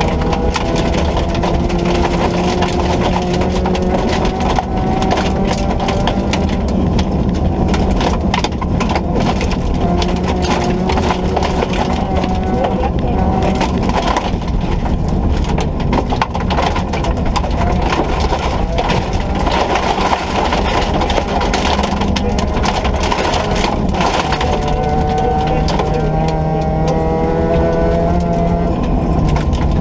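Ford Ka rally car's engine at hard throttle on a stage, its pitch climbing and dropping back at each gear change, over a constant clatter and rattle of loose surface hitting the car.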